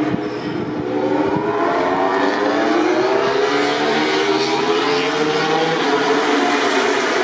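MotoGP racing motorcycle engine running loud, its pitch rising over several seconds as the bike accelerates, then holding steady.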